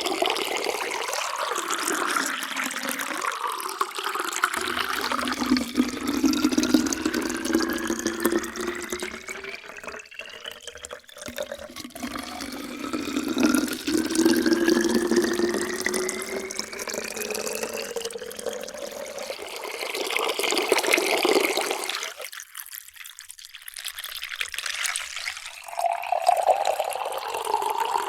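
Water poured in a stream into a container, the pitch of the pour rising steadily as the vessel fills. Several fills follow one another, with a short break near the end before the next pour begins.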